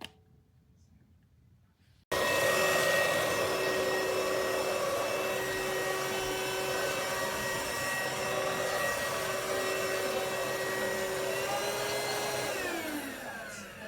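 Cordless vacuum cleaner motor switched on about two seconds in, running steadily with a whine over its airflow noise. Near the end the pitch falls as it is switched off and spins down.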